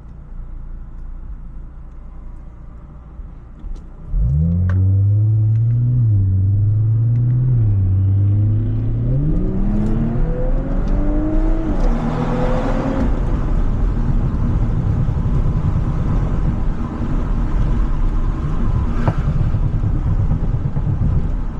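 Audi S5 engine opening up under hard acceleration about four seconds in. The revs hold, then climb steeply, drop near twelve seconds and run on loud with a rough rumble.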